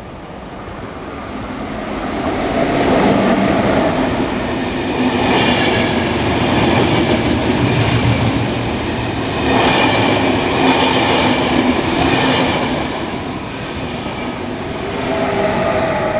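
An intercity passenger train passing through a station at speed without stopping. It grows louder as it approaches over the first few seconds, then the coaches' wheels clatter past in a run of repeated beats, and it fades in the last few seconds.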